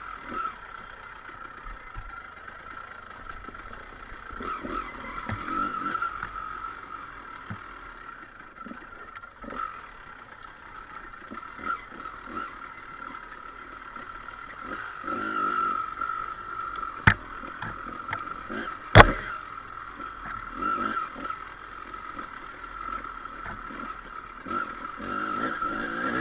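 Enduro dirt bike running along a rough off-road trail, with the engine's note rising and falling amid rattling and clatter. Two sharp knocks come about two seconds apart two-thirds of the way through; the second is the loudest.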